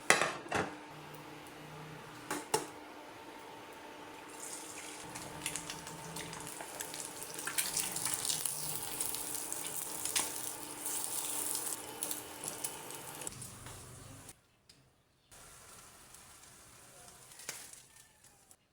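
A few sharp knocks, then water running from a tap into a sink with small clatters, stopping about thirteen seconds in.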